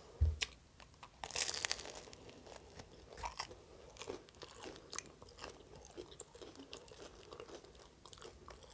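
A bite into a toasted French hot dog baguette bun, its pan-crisped crust giving a sharp crunch a little over a second in, followed by steady chewing with small crackles of crust. A dull thump comes just before the bite.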